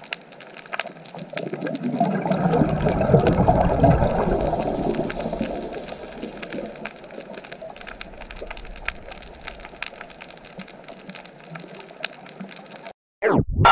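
Underwater reef ambience: a steady crackle of small clicks over a wash of water noise, swelling into a louder rush from about two to six seconds in, then cutting off suddenly just before the end.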